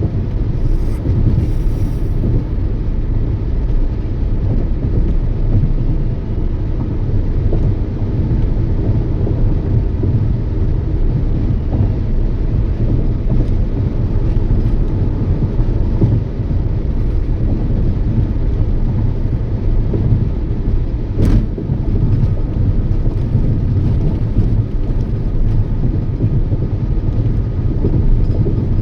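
Toyota Yaris driving at steady speed: a constant low rumble of road, tyre and engine noise. A single sharp click about two-thirds of the way in.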